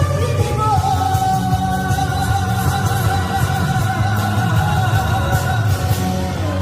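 Korean trot song performed live: a singer holds one long note over the backing music and its steady beat as the song ends.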